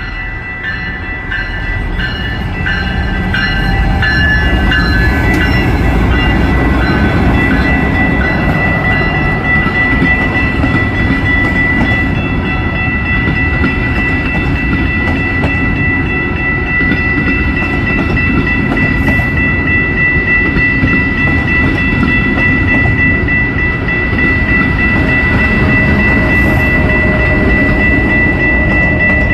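A train passing close by, its rumble building over the first few seconds and then holding steady. A steady high-pitched ringing tone sounds over it throughout.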